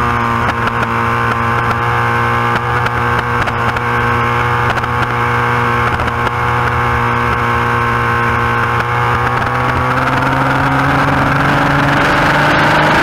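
Yamaha FZR1000 inline-four race engine heard onboard, held at steady high revs through a fast corner, then rising in pitch from about ten seconds in as the throttle opens hard, over steady wind rush.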